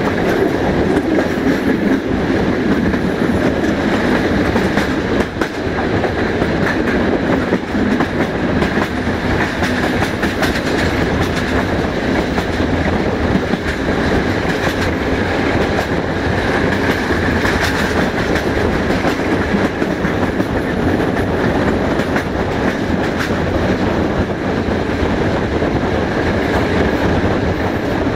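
Passenger train running at speed, heard from an open carriage window: steady rolling noise of the wheels on the rails, with irregular clicks as they pass over rail joints and switches.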